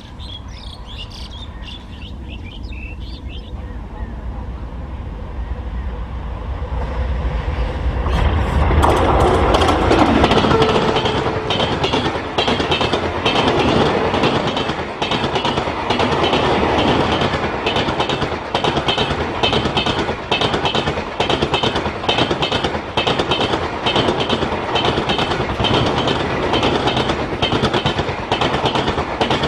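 An ALCo WDM 3D diesel locomotive approaches, its low engine rumble growing louder until it passes about nine seconds in. A long rake of LHB passenger coaches then rushes close by, with a steady, rapid clickety-clack of wheels over the rail joints.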